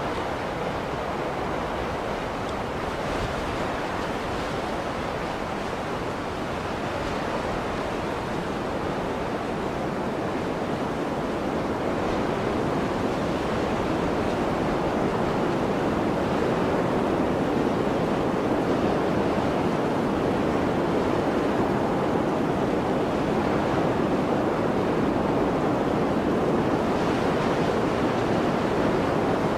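Blizzard wind blowing as a steady rushing noise, growing a little louder about halfway through.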